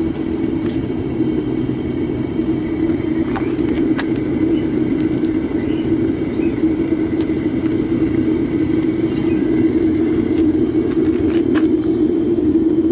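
Propane burner of a homemade foundry furnace running steadily, a constant low rushing noise while aluminum cans melt in the crucible, with a few faint ticks.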